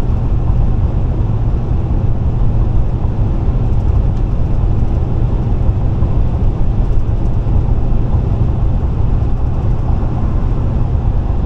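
Car at highway speed: steady rumble of tyres on the road and the running engine, deep and unchanging.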